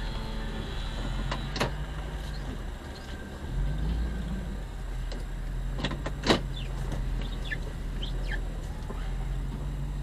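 Car engine running at low speed, heard from inside the cabin as a steady low hum, its note rising briefly a few seconds in. Three sharp clicks, the loudest just past the middle, and faint bird chirps in the second half.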